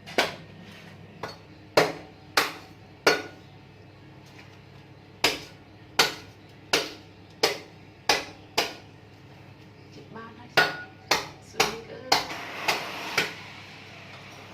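A coconut being chopped open with a blade: a series of sharp chops in runs of several, about one every two-thirds of a second, with short pauses between the runs.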